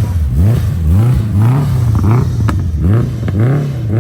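Car engine revved in quick repeated throttle blips, the pitch rising and falling about twice a second. A few sharp cracks sound in the second half.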